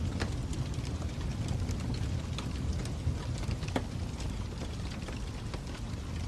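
Fire crackling: a steady low rumble from the flames with irregular sharp pops and snaps, the loudest about a quarter second in and just before four seconds in.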